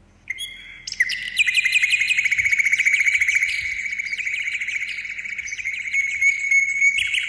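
A songbird singing a long, fast trill of rapid, evenly repeated high chirps. It begins with a short note just after the start and settles into the trill about a second in.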